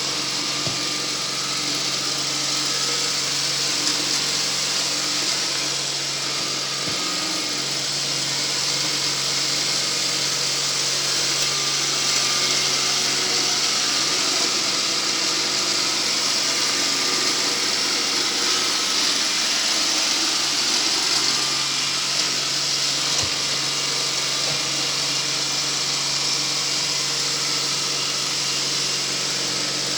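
Motorised sweeping machine running steadily: a loud, even machine noise with a high hiss over a low hum.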